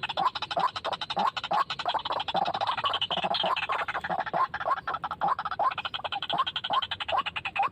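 White-breasted waterhen calling: a dense, nonstop run of short rising croaks, about three a second, over fast clicking notes.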